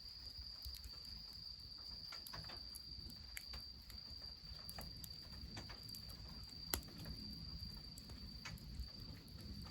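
Wood fire crackling, with scattered sharp pops and one louder pop about seven seconds in, over a steady high-pitched insect trill and a low rumble.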